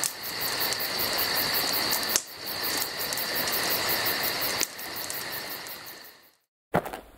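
Evening insect chorus: a fast, even chirping pulse over a steady hiss, fading out near the end. After a brief silence a few sharp crunching knocks begin just before the end.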